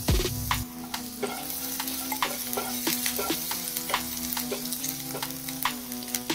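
Chopped ginger and garlic sizzling in hot oil in a kadai while a spatula stirs them, with steady frying hiss and frequent sharp taps and scrapes of the spatula against the pan.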